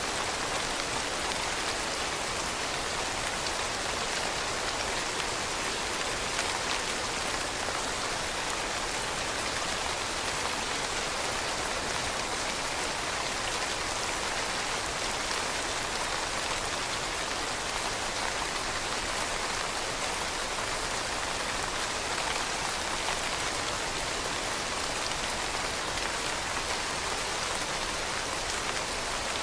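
Steady rain falling on leaves, a dense even patter with no let-up.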